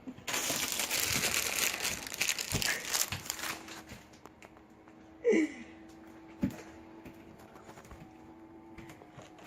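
Loud crinkling and rustling, like something being crumpled or handled, for about three seconds. A short falling vocal sound follows about halfway through, then a single click.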